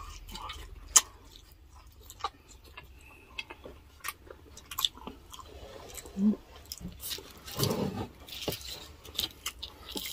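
Close-miked chewing of grilled okra, with wet lip smacks and many sharp mouth clicks, the loudest about a second in. A brief low hum comes about six seconds in.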